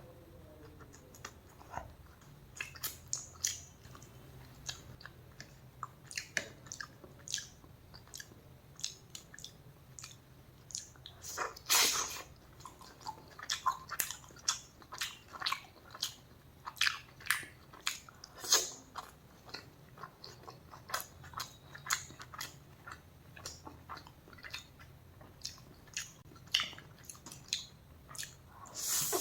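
Close-miked eating: a person chewing and biting food, with irregular mouth clicks and smacks and a few louder bites about twelve and eighteen seconds in.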